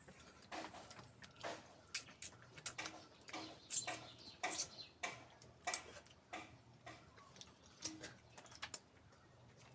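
Close-miked chewing and mouth sounds of a person eating pork feet with rice: irregular sharp clicks and smacks, about two or three a second.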